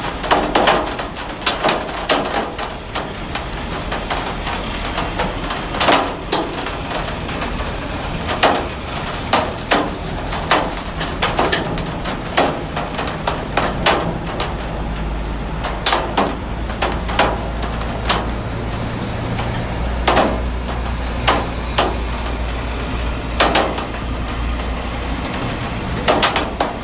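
Heavy rain falling steadily, with frequent sharp, irregular taps and knocks standing out above the hiss. A low rumble underneath grows stronger about halfway through.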